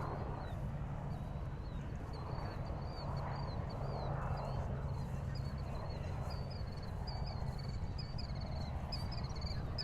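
Harbour ambience at dusk: a steady low hum with a constant low tone under it, like a distant boat or ship engine, with soft swelling washes every second or two. Over it runs high, rapid chirping that grows busier toward the end.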